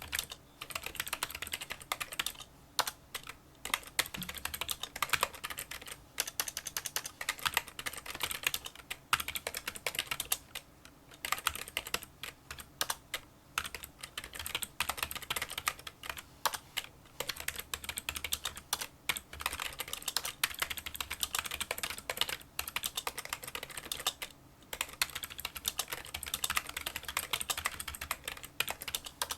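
Continuous rapid touch-typing on a Kinesis Freestyle Solo split keyboard with membrane key switches: a dense run of small, soft key clicks, broken by a couple of brief pauses.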